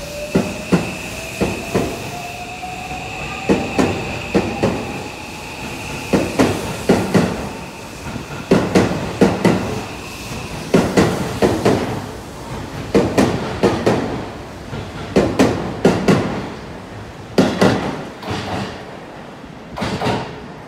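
Seibu 001 series Laview train pulling out past the platform. Its wheels knock over a rail joint in quick pairs as each car's bogies pass, one car about every two seconds. A faint whine rises in pitch over the first few seconds, and a high steady tone stops about halfway through.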